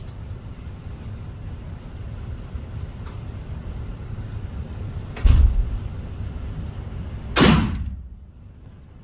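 Two gunshots about two seconds apart, over a steady low rumble.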